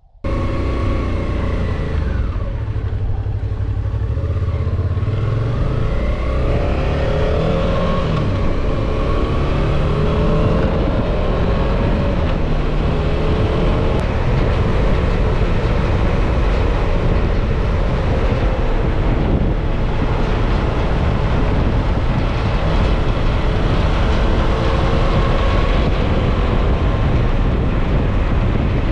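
Suzuki V-Strom 650 XT's 645 cc V-twin engine running under way, its pitch rising and falling with the throttle through the bends, over steady wind and road noise.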